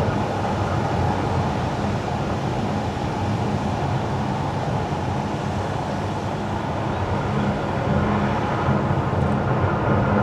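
Tyre and road noise of a car driving on wet winter asphalt: a steady hiss over a low hum. Faint higher whining tones come in near the end.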